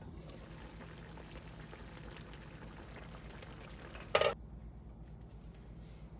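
Kitchen cooking sounds: a soft steady hiss of liquid, then a short loud clatter about four seconds in, after which the hiss stops.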